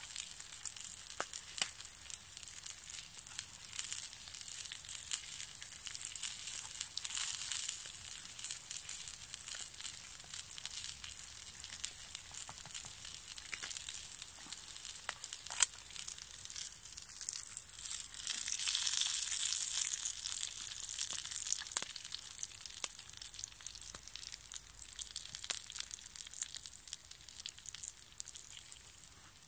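Slices of Spam frying in a small pan: a steady sizzling hiss with scattered sharp pops, a little louder for a few seconds about two-thirds of the way through.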